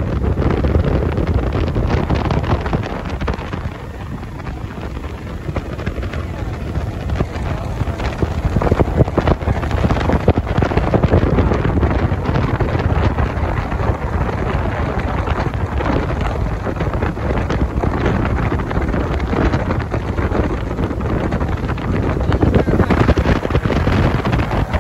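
Wind buffeting the microphone on a motorboat under way at speed, a loud, rough, surging rush of wind, engine and water.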